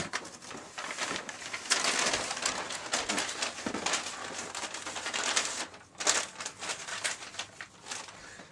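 Paper bag crinkling and rustling in irregular crackly bursts, the sound of a paper bag puppet being handled.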